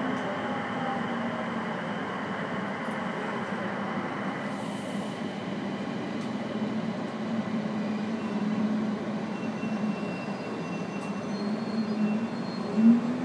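IGR 7000 series (ex-JR East 701 series) electric train running, heard from inside the car: steady rumble of wheels on rail with a low motor hum that wavers in pitch. A brief louder burst near the end.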